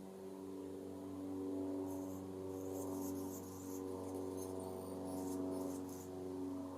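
Steady low mechanical hum, like a distant engine running. From about two to six seconds in, a run of very high, thin chirps sounds over it.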